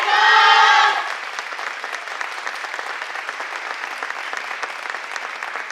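A group of voices calling out together in unison, ending about a second in, followed by audience applause.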